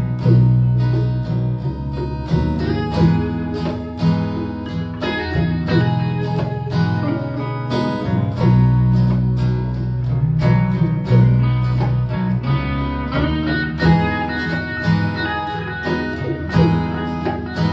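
Acoustic guitar playing an instrumental passage of the song, strummed and picked over strong bass notes, with no singing.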